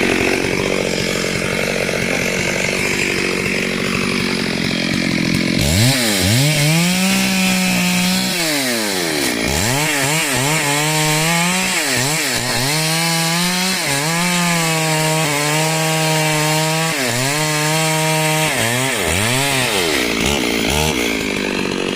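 Chainsaw engine running at high revs. From about six seconds in, its pitch repeatedly drops toward idle and climbs back up as the throttle is released and squeezed, with short steady stretches at full speed in between.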